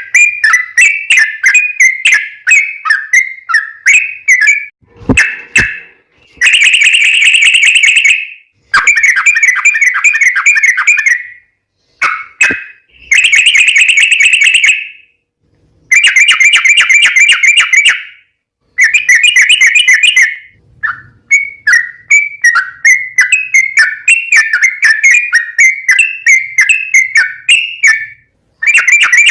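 Yellow-vented bulbul (trucukan) singing long rapid runs of bubbly, chattering notes in phrases of about two seconds, separated by short pauses, with a brief low thump about five seconds in.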